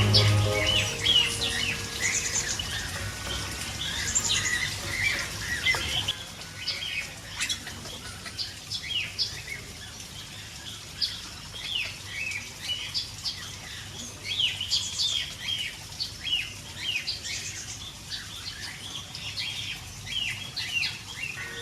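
A flock of small aviary birds chirping, with many short, quick calls overlapping one another throughout.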